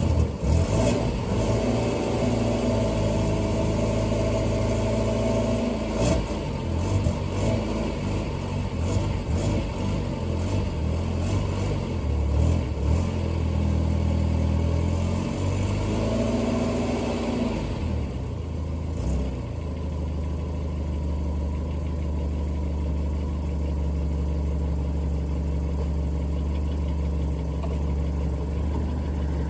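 Toyota Carina engine running cold on a jump booster. The revs rise and fall for about the first twenty seconds, then settle to a steady idle.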